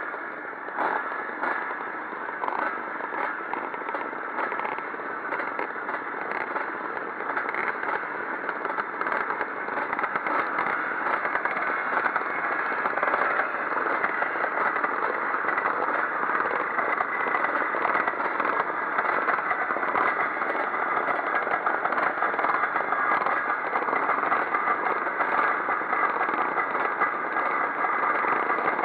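Classic pre-1965 motocross motorcycles racing, several engines running together as one continuous rasping noise. The noise gets louder about eight seconds in and stays at that level.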